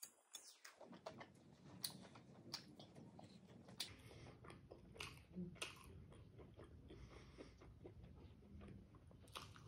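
Faint chewing with soft, irregular mouth clicks, and lettuce leaves crinkling as they are folded by hand around a piece of boiled smoked pork.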